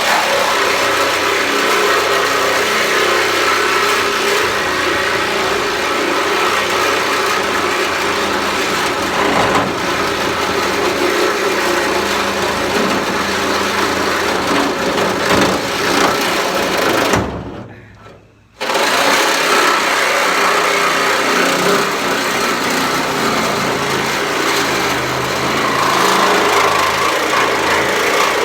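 Power tool cutting through the sheet-metal bed of a pickup truck, running loud and steady. About two-thirds of the way through it stops for just over a second, then starts again suddenly.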